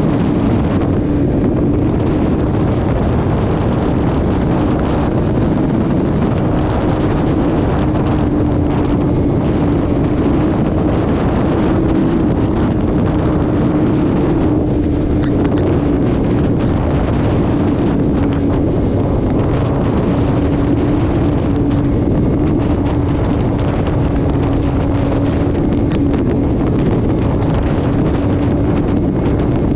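Vehicle cruising at steady highway speed: an even engine drone holding one pitch, under heavy road and wind noise.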